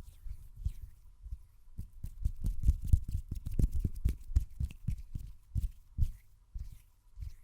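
Fast hand sounds right at the microphone: a quick run of soft, low thumps from hands tapping and rubbing, busiest in the middle.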